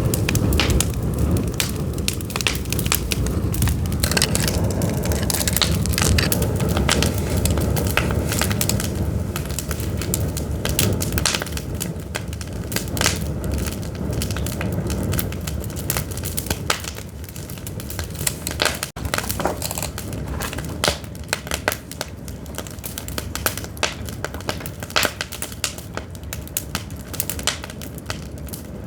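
Pine firewood burning in an open fire, crackling with many sharp pops and snaps over a low rumble that eases off about halfway through.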